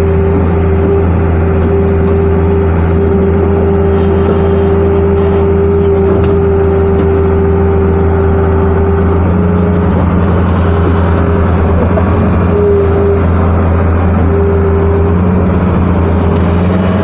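KATO HD-650 hydraulic excavator's diesel engine running steadily while it works, a loud low hum with a steady higher tone above it that shifts slightly now and then.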